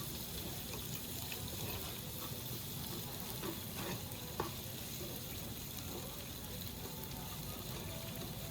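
Beef daechang and makchang intestines sizzling as they grill at the table, a steady frying sound with a few light clicks about halfway through.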